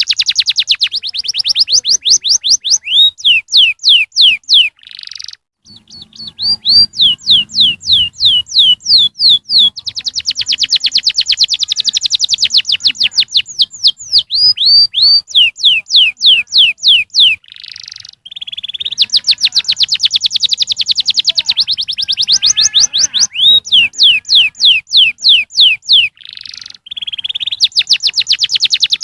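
Domestic canary singing: fast trills of rapidly repeated high sweeping notes, switching from one trill to the next, with a few short harsh notes in between and brief pauses about five and eighteen seconds in.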